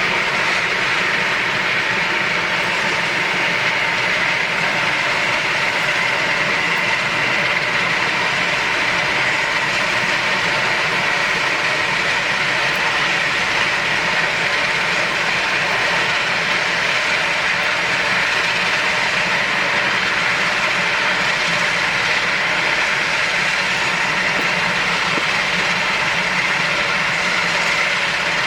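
Aircraft engine noise at an airport: a loud, steady, unchanging rush with a high whine in it.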